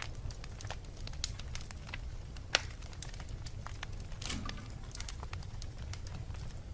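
Wood fire burning in a fireplace: scattered sharp crackles and pops over a steady low rumble of flame, with one loud pop about two and a half seconds in.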